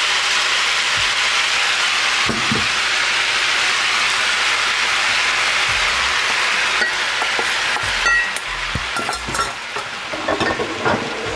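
Stir-fry noodles sizzling steadily in a hot pan as cooked chicken and vegetables are tipped in. About eight seconds in the sizzle dies down and a few light clinks and scrapes follow.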